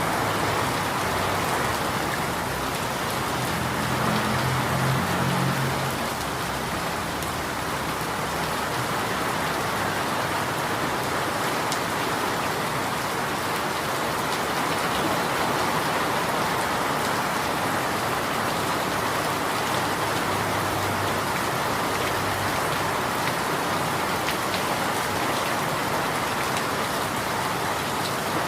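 Steady rain falling, an even hiss with no breaks, with a faint low hum a few seconds in.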